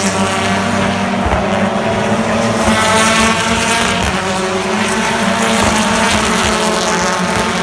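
British Touring Car Championship race cars' engines running at racing speed, several engine notes overlapping, with one climbing in pitch about three seconds in as a car accelerates.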